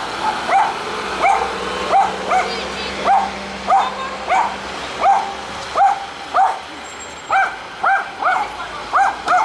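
Stray dog barking over and over, about one and a half barks a second, the barks coming faster near the end. A low steady hum sits underneath in the first half.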